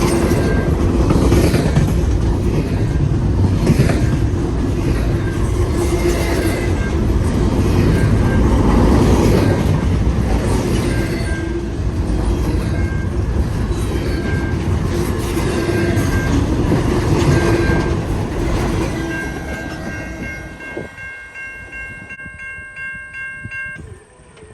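Intermodal freight train rolling past at close range, its wagons rumbling and the wheels clacking over rail joints. About 19 seconds in the last cars pass and the noise fades, leaving a high ringing that pulses quickly.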